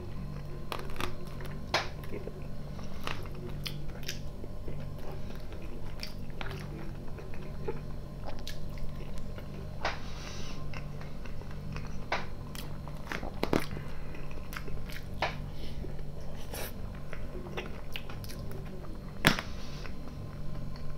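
A man chewing mouthfuls of soft salad close to the microphone: wet mouth sounds with scattered sharp clicks, the loudest near the end, over a steady low hum.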